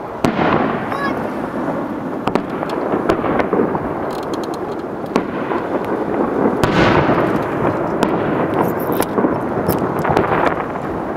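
Aerial fireworks shells bursting: deep booms with a long rumbling echo, loudest about a quarter second in and again near seven seconds in, with scattered crackling pops throughout.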